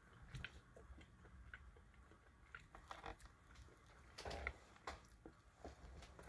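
Faint chewing of a breaded mozzarella stick: scattered soft mouth clicks and smacks, busiest about four seconds in.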